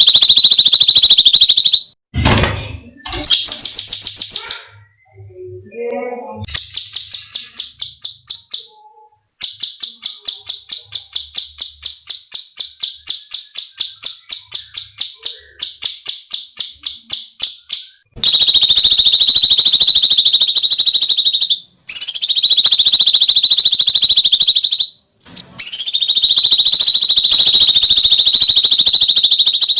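Cucak cungkok calling loudly: long harsh screeches alternating with a long run of quick, evenly repeated rattling notes, about four or five a second, in the middle.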